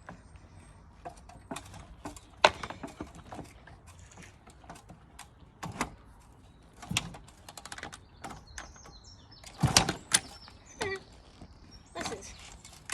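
Scattered knocks and clunks, the loudest about two and a half seconds in and again around ten seconds, with no engine running.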